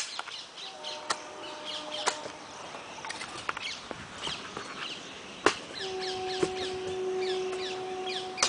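Small birds chirping in quick, falling calls, with a few sharp clicks, the loudest about two-thirds of the way through. From about then on, a long steady tone sounds.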